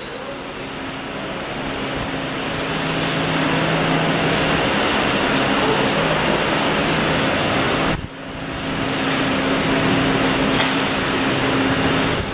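Electric arc welding: a steady hiss with a low machine hum under it. The arc breaks off about eight seconds in and is struck again at once.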